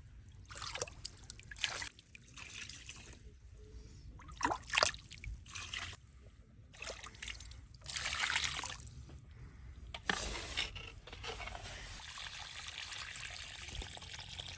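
Water trickling and splashing in short, irregular bursts, then running steadily for the last few seconds.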